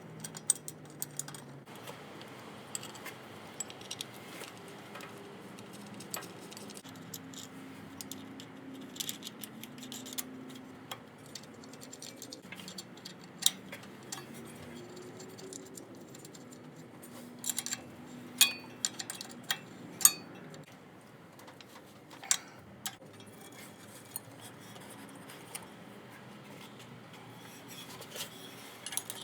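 Hand tools clicking and clinking against metal while a power steering pump and its fittings are worked on: scattered sharp clicks, with a few louder knocks about two-thirds of the way through.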